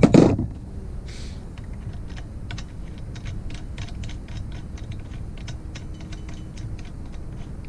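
A single loud knock just after the start, then a string of light, irregular clicks of hand tools working on the engine's parts.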